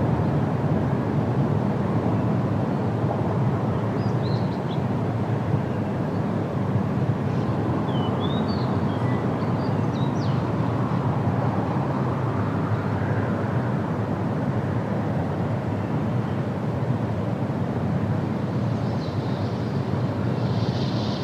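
Steady wind rushing through forest trees, a low even noise, with a few faint short bird chirps about four seconds in and again around eight to ten seconds in.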